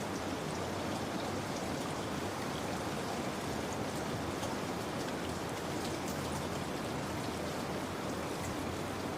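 Steady rain falling, an even wash of noise with scattered raindrop patter.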